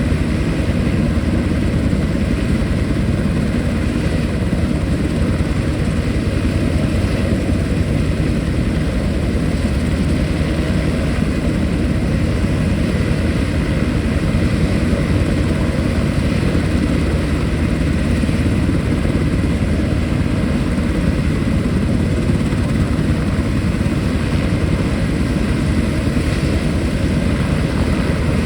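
Military helicopter running loud and steady, its rotor and turbine noise unbroken and without speech.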